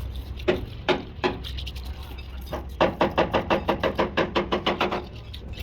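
Hammer blows on metal: three separate knocks, then a fast even run of about eight blows a second for some two seconds, each ringing with a steady tone. A low hum runs underneath.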